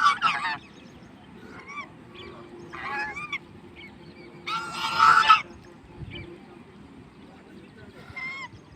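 Swans honking: a series of about six short nasal calls, some in quick bursts, the loudest and longest about five seconds in.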